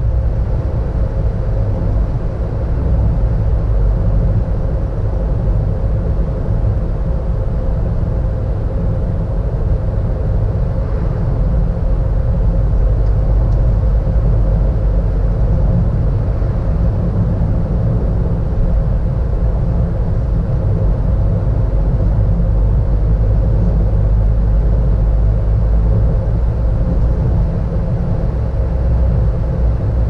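Steady road and engine rumble of a car driving, heard from inside the cabin, with a faint constant hum over it.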